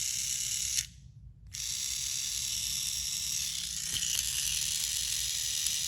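Small electric motor and plastic gears of a battery-powered toy train engine whirring steadily, stopping briefly about a second in and then running again; the engine works.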